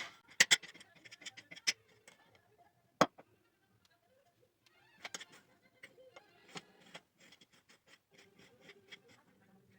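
Knife chopping orange peel on a cutting board: sharp, irregular taps in clusters, the loudest about three seconds in.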